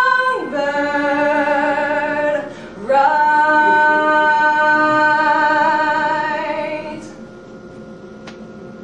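A woman's voice singing unaccompanied, holding long notes with vibrato. The note drops in pitch just after the start, a new long note rises in about three seconds in, and the singing fades away near seven seconds.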